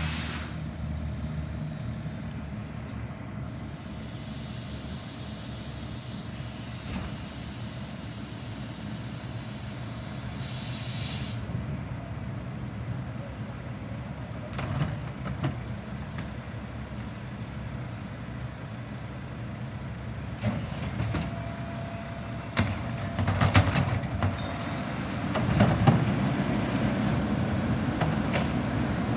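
Garbage truck's diesel engine running, with a long hiss of air in the first part that cuts off sharply about eleven seconds in. Scattered knocks and clanks follow in the second half.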